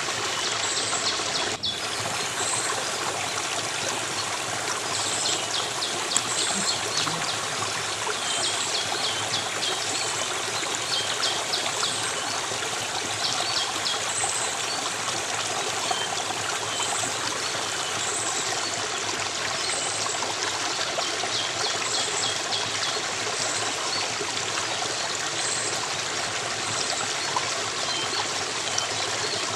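Stream of water flowing steadily, with a high chirping call repeating about once a second over it.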